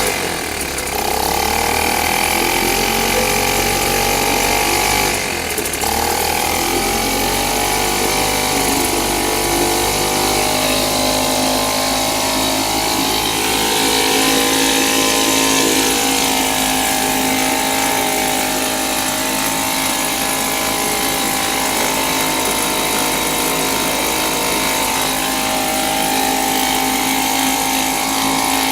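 British Seagull Forty Minus single-cylinder two-stroke outboard motor running steadily on its new replacement ignition coil. Its revs dip briefly and pick up again twice: near the start and about five seconds in.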